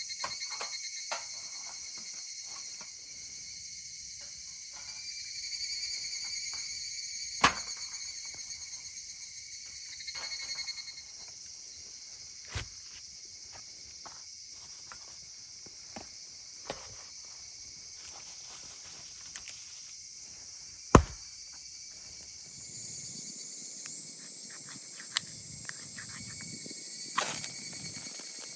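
Wood fire burning in a fire pit with sparse crackles and a few sharp pops, the loudest about three-quarters of the way through, over steady high-pitched chirring of insects.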